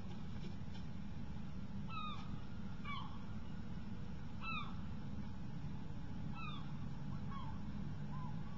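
Short, down-slurred bird call notes, about six of them at irregular intervals, heard over a steady low hum.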